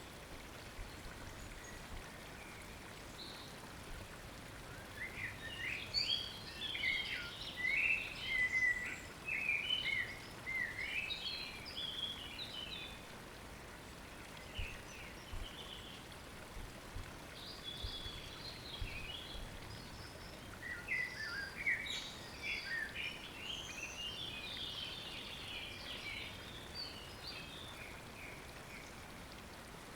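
Small birds singing in rapid, high twittering phrases, in two long bouts: one starting about five seconds in, the other a little past the halfway point. Under them is the steady hiss of running water from a stream.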